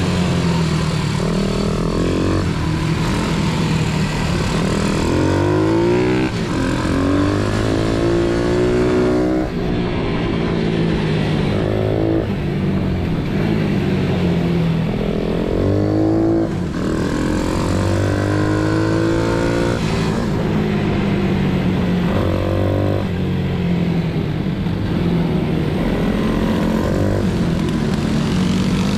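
Pit bike engine running hard under load, its pitch climbing again and again as it accelerates and shifts up through the gears.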